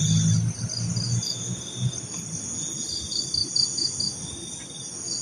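Crickets and other night insects chirping steadily, with evenly pulsed high chirps over a continuous high trill. A low rumble sits under them for the first couple of seconds and then fades.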